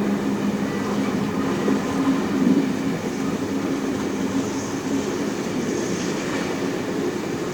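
Heritage passenger train behind steam locomotive 3801 running along the line: a steady rumble of wheels on rails with a low hum that fades about halfway through.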